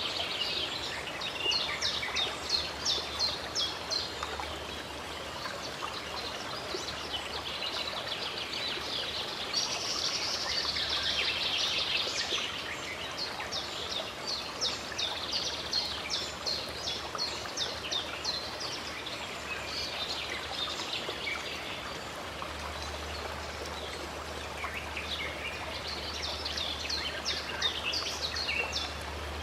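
Running water from a stream, rushing steadily, with songbirds singing in quick runs of high, repeated chirps that come and go several times.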